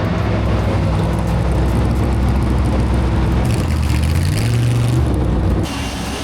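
Car engine running steadily, its pitch shifting up and down a couple of times. The sound changes abruptly near the end.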